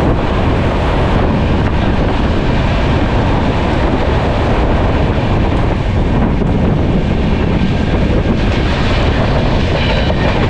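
Passenger express train running at speed, heard from an open coach doorway: a steady rush of running noise with wind buffeting the microphone.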